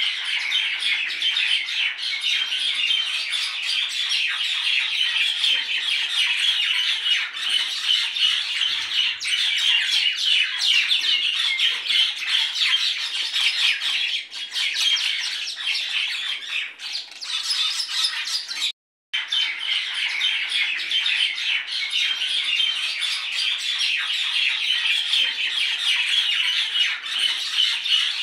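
A flock of many birds calling at once, a dense, continuous chatter of short calls, broken by a brief cut to silence about two-thirds of the way through.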